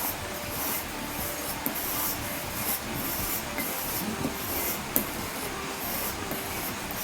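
A steel pocket-knife blade is drawn edge-trailing across a leather strop on a wooden block rubbed with green crayon, in steady rubbing strokes about two a second. The stropping removes the burr ("little hooks") that the sharpening stones left on the edge.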